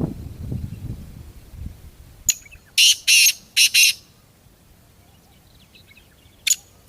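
Black francolin calling: a phrase of four loud, rasping notes about three seconds in, after a single short note, and the start of another phrase near the end. A low rumble fades out over the first two seconds.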